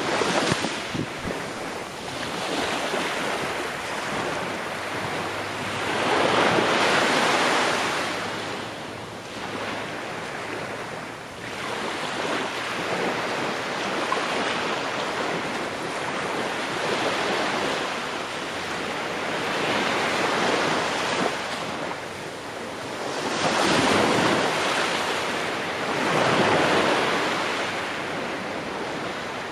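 Ocean waves breaking and washing on the shore, a continuous surf noise that swells and recedes every few seconds, with two stronger breakers about six seconds in and again near the end.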